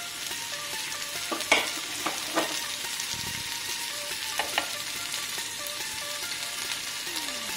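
Marinated soya chunk and vegetable skewers sizzling in hot oil on a nonstick pan. A few sharp clicks sound as the skewers are set down and nudged in the pan; the loudest is about a second and a half in, with others near two and a half and four and a half seconds.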